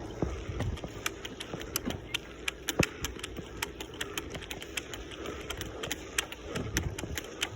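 Bicycle ride heard from a handheld or mounted phone: a low wind rumble on the microphone with many sharp, irregular clicks and rattles throughout.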